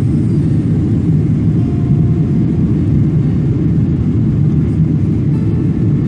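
Boeing 777-300 airliner heard from inside the cabin: a steady, loud, low rumble of engine and airframe noise.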